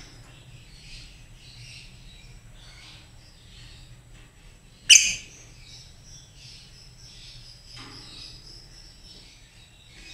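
Lovebirds chirping in quick, high twitters, with one loud, sharp shriek about halfway through.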